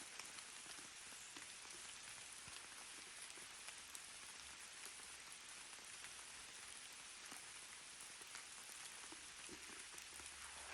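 Steady rain falling faintly, a continuous hiss of many small drop ticks.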